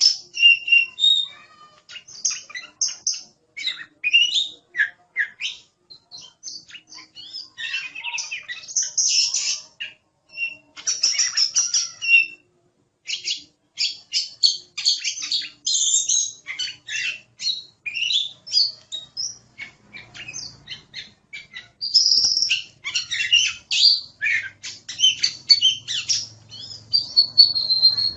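Oriental magpie-robin (kacer) singing vigorously: a fast, varied run of sharp chirps, clear whistles and buzzy trills in phrases broken by brief pauses.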